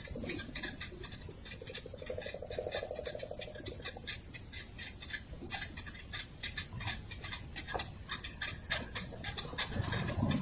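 Small birds chirping: a dense stream of short, quick high calls, with a longer, lower buzzy call about two to three seconds in.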